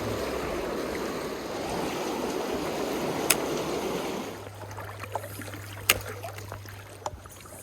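River water rushing over a riffle, which drops away sharply about four seconds in to a quieter flow with a low steady hum. A few sharp clicks stand out, the loudest about halfway through.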